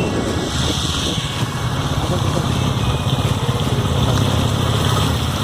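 Motorcycle engine running steadily under way, with a fast even low pulsing.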